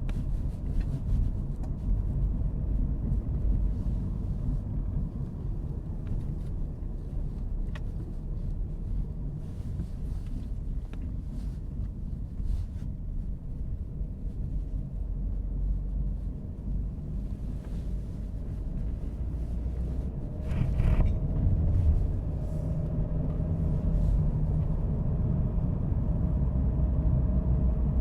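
Road noise of a car being driven: a steady low rumble of tyres and engine. About three-quarters of the way in there is a brief louder rush of noise, and the rumble stays louder after it.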